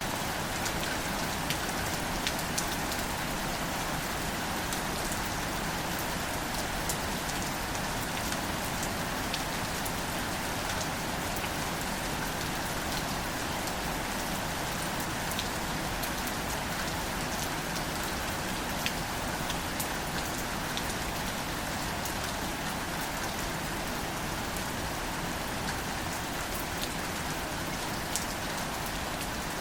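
Steady light rain falling on plants and leaves, an even hiss with many small, scattered drop ticks.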